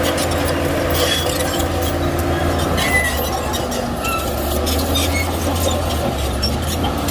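Shantui bulldozer's diesel engine running steadily, with short high squeals and metallic clinks scattered throughout, typical of a crawler's steel tracks.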